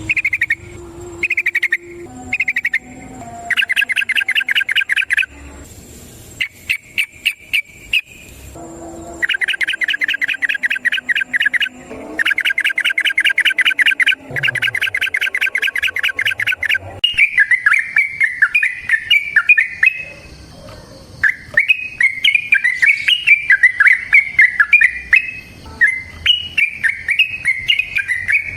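Yellow-vented bulbul (trucukan) singing: bursts of very fast repeated chattering notes, each burst a second or two long, giving way about seventeen seconds in to a continuous bubbling, warbling song.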